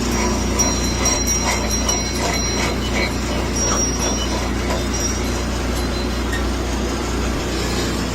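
Steady mechanical drone of a cryogenic tanker's unloading rig, the truck engine running the transfer pump. A low hum steps up right at the start, with thin, high intermittent whistling tones over it.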